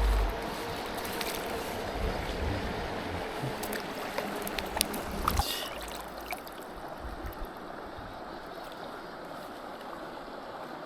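Mountain stream running, a steady rush of water, with a few sharp clicks and knocks between about four and five and a half seconds in.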